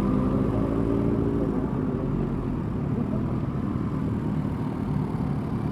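Motorcycle engine running steadily at low speed, its tone easing off slightly a couple of seconds in.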